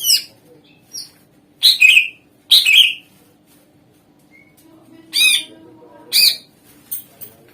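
Cucak ijo (green leafbird) calling in short, loud phrases of sharp notes that slide down in pitch. A cluster comes in the first three seconds, then a pause, then more phrases from about five seconds in.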